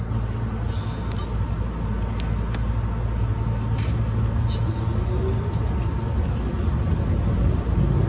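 Keihan Ishiyama-Sakamoto Line electric train running along the track, heard from inside the car: a steady low rumble of motors and wheels on rail with a faint steady whine and a few light clicks, growing slightly louder toward the end.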